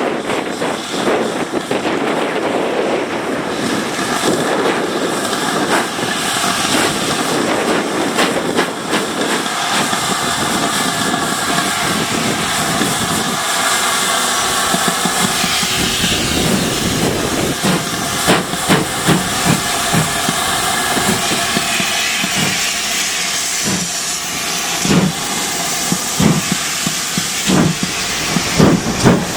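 Steam engine venting a steady hiss, with short runs of rhythmic exhaust beats, about three a second, in the second half.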